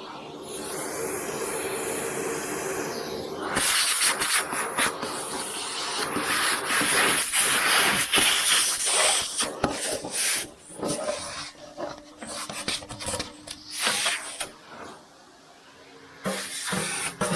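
A steady hiss for the first three seconds or so, then irregular rasping strokes of hand scraping and wire-brushing old grease and dirt off a metal part of a 1960s Boxford lathe, with a short lull near the end.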